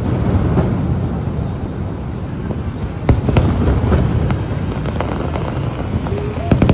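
Fireworks going off: a continuous low rumble of bursts, with sharp bangs about three seconds in and again near the end.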